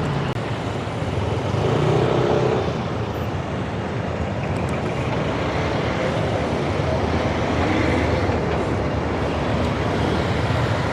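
Steady road traffic noise of passing cars and trucks, heard from a bicycle riding beside the traffic. A vehicle's engine passes louder about two seconds in.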